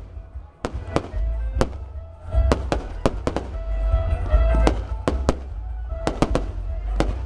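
Aerial fireworks bursting: a rapid, irregular series of about fifteen sharp bangs over a low rumble, with music playing underneath.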